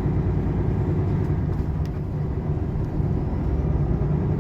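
Volvo dump truck's diesel engine running steadily while driving, a low, even drone heard from inside the cab.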